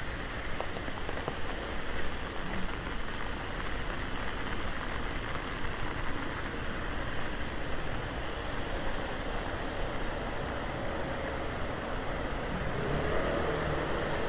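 Steady rain on a city street, with scattered ticks of drops hitting a surface. Near the end a passing vehicle's engine grows louder.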